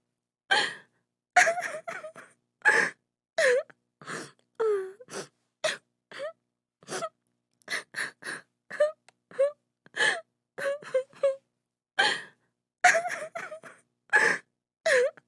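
A woman crying in short sobbing gasps and wails, about two a second, some with a rising or falling pitch, with brief silences between them.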